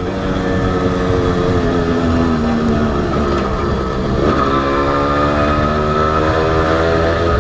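Honda H100S two-stroke motorcycle engine under way: its note falls for the first few seconds as the bike slows, dips about four seconds in, then climbs steadily as it accelerates again.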